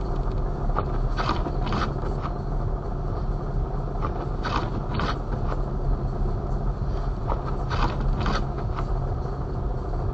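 A vehicle running with a steady low rumble, with short hissing swishes in pairs about half a second apart, repeating every three seconds or so.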